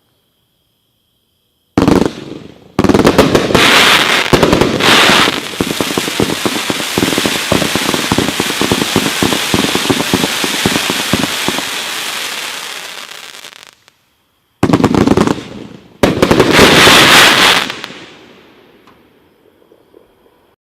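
Black Cat 1000-gram display firework going off: a dense barrage of rapid bangs and crackling that tails off, stops for under a second, then starts again with a second loud barrage that fades out.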